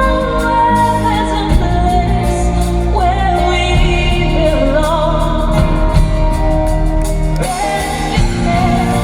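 A live band playing, with a singer's sustained, wavering vocal line sliding between notes over steady bass and chords.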